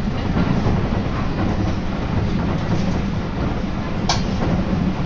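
Train running: a steady low rumble of wheels on rail, with one sharp clack about four seconds in.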